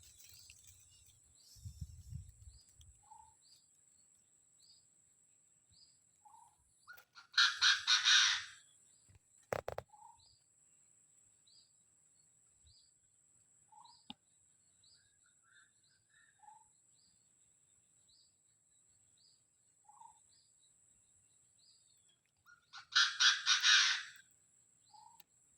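Birds calling: a loud, harsh, rapidly pulsed chattering call comes twice, over a steady series of short high chirps repeated about every half second and a few lower single notes.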